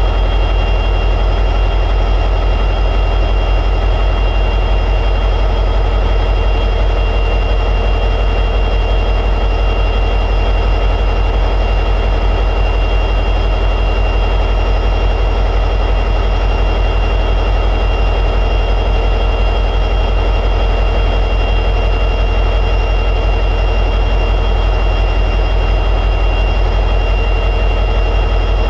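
EMD 710G3B two-stroke diesel prime mover of an SD60E locomotive running at high idle: a steady deep drone with a constant high-pitched whine over it.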